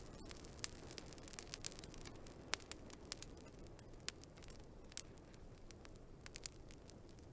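Wood fire crackling: irregular sharp pops and snaps, several a second, a few of them louder, over a low steady hiss.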